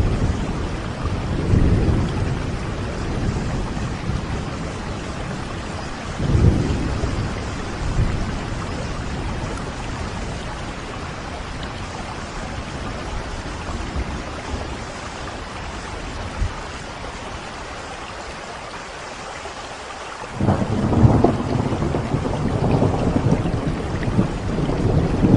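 Steady heavy rain with rolling thunder. Rumbles swell near the start and about six seconds in, and a louder roll of thunder begins about twenty seconds in and lasts to the end.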